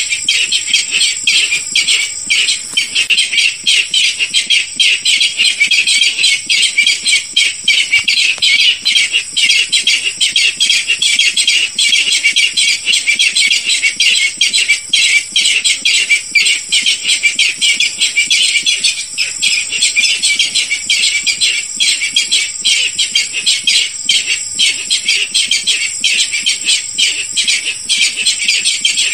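Barred rail (Hypotaenidia torquata) calling: a rapid, dense run of harsh notes that repeats without pause, with a steady high-pitched tone underneath.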